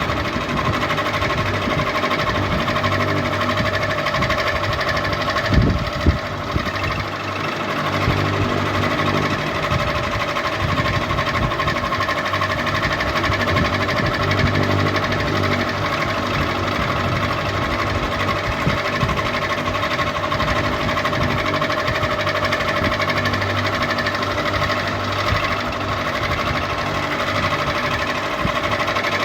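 Ceiling fan running steadily: an even whirring hum with a fast, regular mechanical rattle, and one brief knock about six seconds in.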